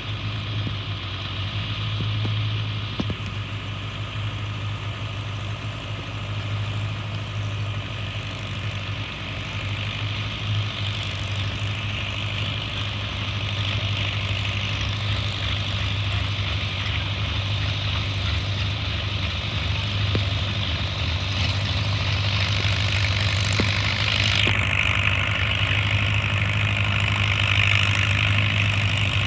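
Tractor engine running steadily at constant speed, growing gradually louder over the second half.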